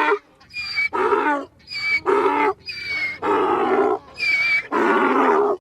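An animal calling over and over in quick succession, about eight short calls. Shorter calls with a thin high whistling tone alternate with lower, fuller calls.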